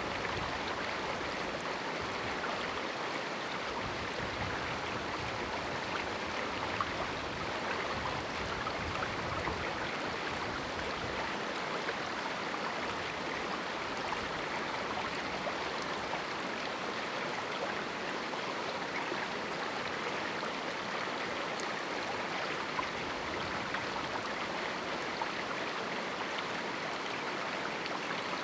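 A small river running through a canyon: steady rushing and gurgling of water over rocks, with small splashes throughout.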